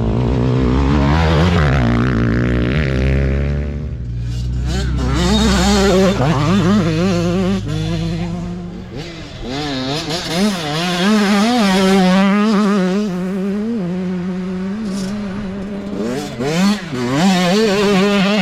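Small youth dirt bike two-stroke engines revving up and down as the bikes race by, the pitch rising and falling over and over as riders work the throttle, with several bikes overlapping in the first few seconds.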